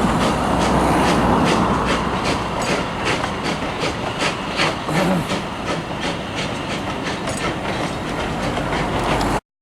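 Train running along the track, its wheels clicking over rail joints several times a second over a steady rumble. The sound cuts off suddenly near the end.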